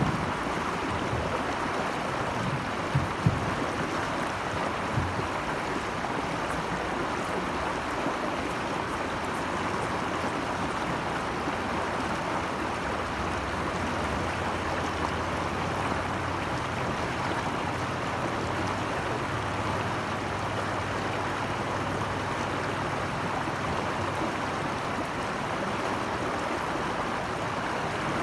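Steady rush of flowing stream water, with a few brief knocks about three seconds in.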